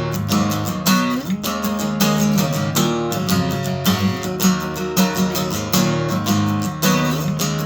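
Acoustic guitar strummed in a fast, steady rhythm of chords, with no singing.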